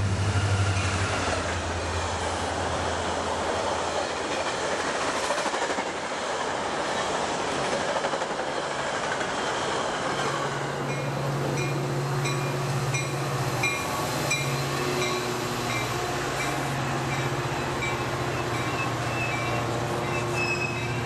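Train rolling past on the tracks: engine drone and the noise of wheels on rail. From about halfway a steadier low drone sets in, with a high ding repeating about twice a second.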